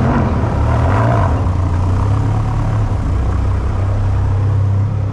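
Car engine running steadily, a low, even drone.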